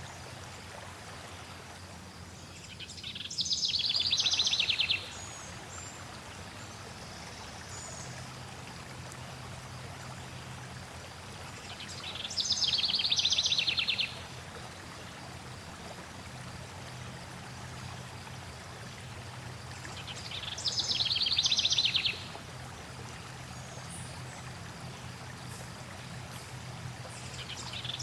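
Flowing water runs steadily while a songbird repeats the same short trilled phrase four times, about every eight to nine seconds. The bird phrases stand out clearly above the water.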